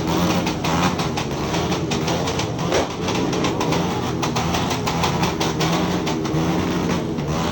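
Motorcycle engine running, its pitch wavering a little up and down, with a rapid, irregular crackle of clicks over it.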